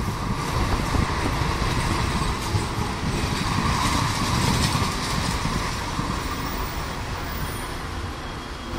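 Steady rumble and wheel noise of trains running side by side, heard through the open window of a moving suburban EMU coach while a long-distance express overtakes on the adjacent track. The noise eases slightly near the end.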